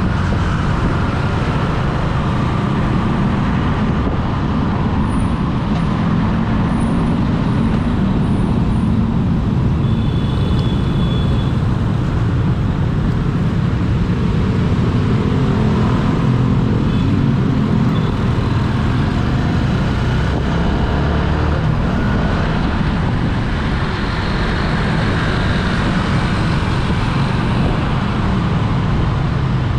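Steady road traffic noise with a heavy low rumble of vehicle engines and tyres; the engine drone rises and falls slowly. A short, faint high-pitched tone sounds about ten seconds in.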